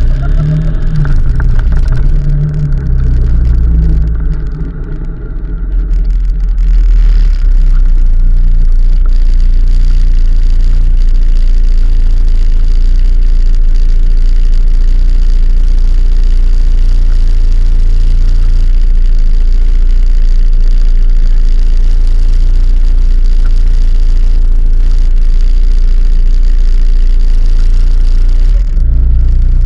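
Loud, steady low rumble of a moving road vehicle: engine and road noise during a ride. The rumble eases for a moment about five seconds in, then carries on evenly.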